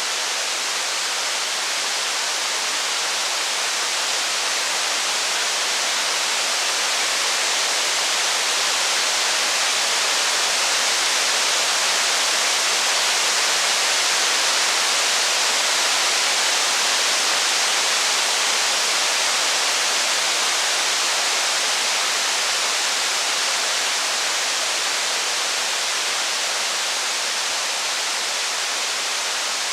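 Steady heavy rain, a dense even hiss that swells slightly and falls back over the span.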